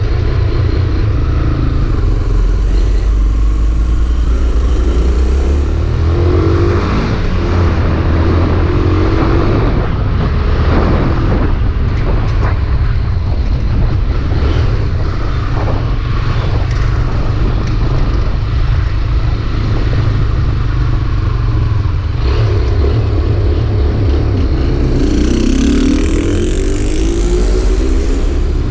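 Honda CB 300R single-cylinder engine running on its stand with a hunting idle. Now and then it surges up in revs and back down without the throttle being touched, a little after the start, again a few seconds later and near the end.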